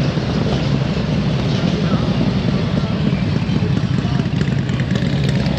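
Motorcycle engines running at close range, with a crowd talking over them.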